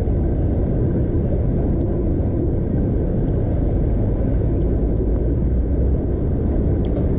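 Steady low rumble of wind buffeting the microphone of a chest-mounted GoPro on a moving bicycle, with a few faint ticks near the end.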